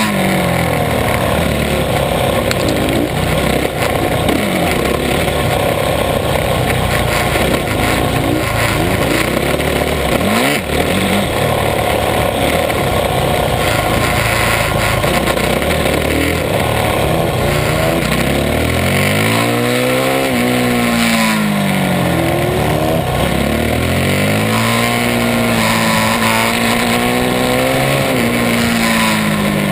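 Supermoto motorcycle engine heard from on board, revving up hard and dropping back over and over as the bike accelerates out of corners and brakes into the next.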